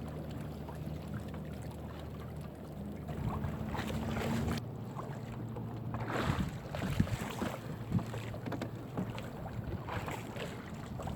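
Small fishing boat's engine running steadily, its note dropping about four and a half seconds in as it is throttled back, followed by scattered knocks of gear on the boat.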